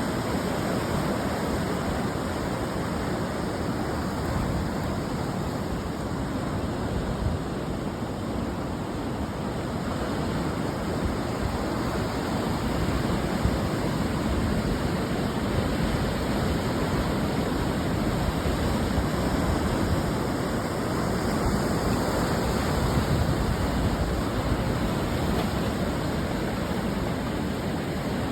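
Ocean surf breaking on a beach: a steady wash of white water, swelling and easing gently over several seconds.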